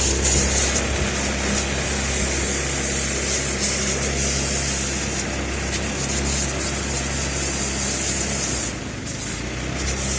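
Pressure washer spraying water in a steady hiss over the low hum of its motor. The spray cuts out briefly near the end, then resumes.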